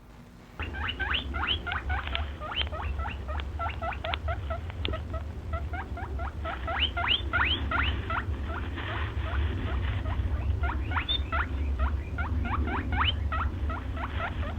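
A small animal squeaking: short rising squeaks in quick runs, about three or four a second, over a steady low hum.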